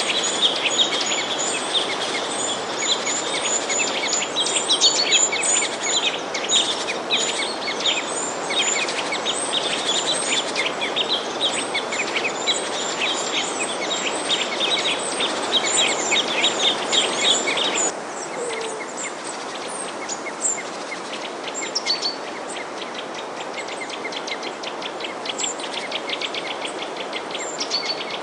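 A crowd of small songbirds chirping and twittering many at once over a steady background hiss. About two-thirds of the way through, the sound drops suddenly in level and the chirping thins to scattered calls.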